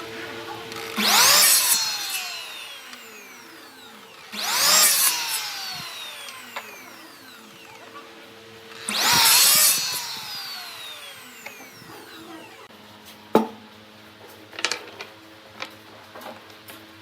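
A power tool run in three short bursts a few seconds apart, its pitch falling away as it winds down after each. A few sharp clicks and knocks follow near the end.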